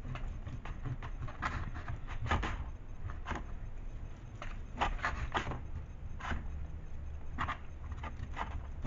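Eating sounds: chewing with scattered short, irregular clicks of mouth and food over a low hum.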